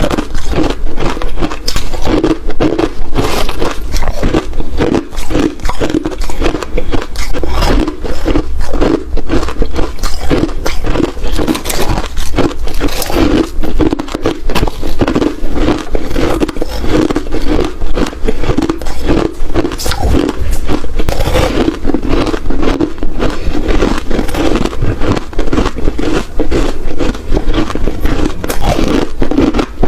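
Ice being bitten and chewed close to the microphone: a loud, continuous run of crisp crunches and crackles.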